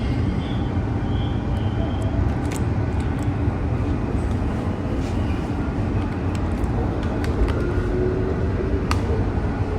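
Washington Metro train running on the rails, heard from inside the car: a steady rumble with faint whining motor tones and scattered sharp clicks.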